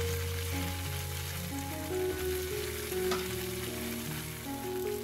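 Slabs of tofu pan-frying in oil at medium-low heat, making a steady sizzle.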